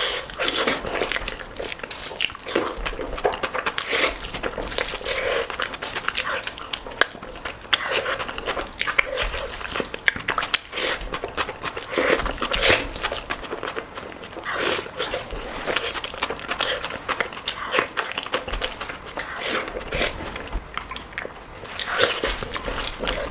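Close-miked eating: a person chewing and biting food with wet mouth smacks, clicks and occasional crunches in an irregular run.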